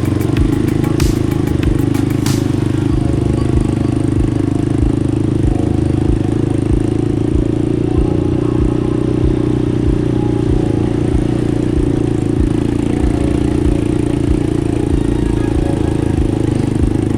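ATV engine running at a steady speed while riding a trail, with a few sharp clicks in the first couple of seconds.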